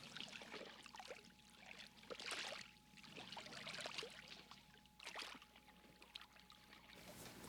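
Faint water sloshing and trickling in soft swishes, with a thin steady whine in the background.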